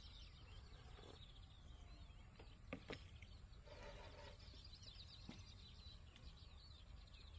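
Near silence with faint birdsong: small birds chirping on and off in the background. A couple of light clicks come just before three seconds in.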